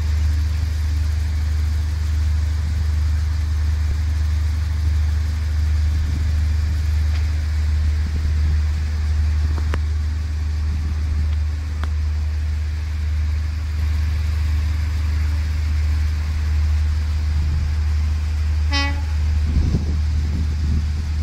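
Diesel train engine idling with a steady low hum throughout. Near the end comes one short train horn toot, followed by a couple of dull knocks.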